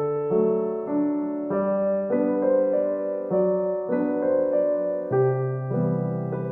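Piano music: a calm run of sustained chords, a new chord about every half second.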